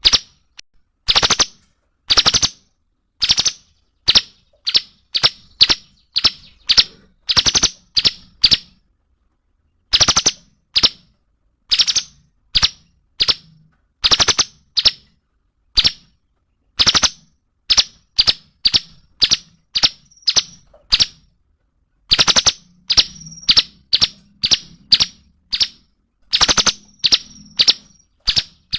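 Cungkok songbird calling: short, sharp rattling notes repeated about once or twice a second, some ending in a brief high whistle, with a pause about nine seconds in.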